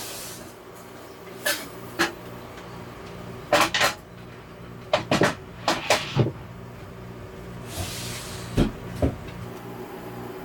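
A string of irregular knocks and clatters, like cupboard doors and dishes being handled in a small space, with two short hissing swells and a steady low hum underneath.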